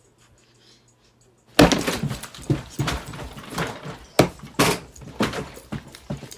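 Loud animal cries begin suddenly about a second and a half in and go on as a rapid, uneven series of sharp sounds.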